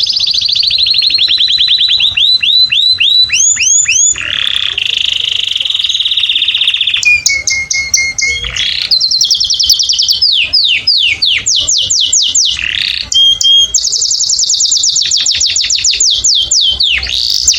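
Domestic canary singing a continuous song of fast trills, rapid runs of repeated sweeping notes that switch pattern every few seconds, with a held lower whistle about halfway through.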